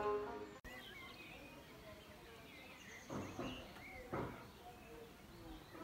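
Birds chirping over faint outdoor ambience, with two short louder calls about three and four seconds in. Plucked-string music cuts off at the very start.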